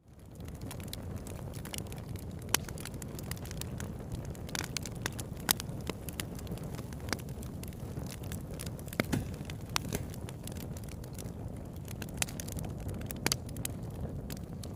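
Wood campfire crackling, with irregular sharp pops and snaps over a steady low rumble of burning. The sound drops out for a moment at the very start and comes back within half a second.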